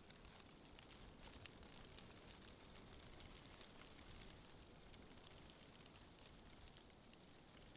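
Faint, steady hiss of wind through leaves, with scattered light ticks.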